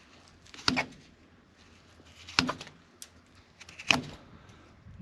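Hoof knife paring hard cow hoof horn: four sharp, separate cutting strokes, irregularly spaced, as the knife opens up a white-line lesion over a hidden cavity.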